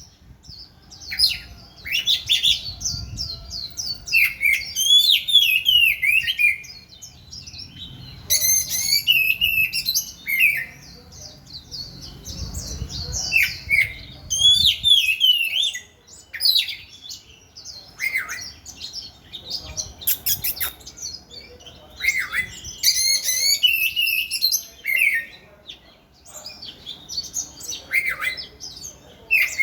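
Oriental magpie-robin singing: loud, varied whistled phrases and quick chirps, sung in runs of a few seconds with short pauses between them.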